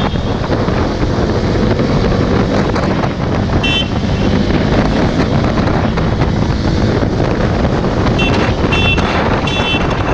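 Motorcycle ridden at speed, with wind buffeting the microphone over the steady running of the engine. Short high-pitched beeps come once about four seconds in and a few more times near the end.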